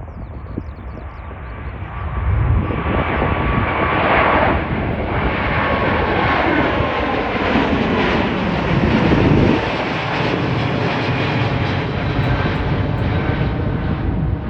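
Airbus A350-900's Rolls-Royce Trent XWB turbofans at takeoff thrust as the airliner passes. The loud jet rumble builds over the first couple of seconds, its whine falls in pitch about halfway through, and the noise stays loud to the end.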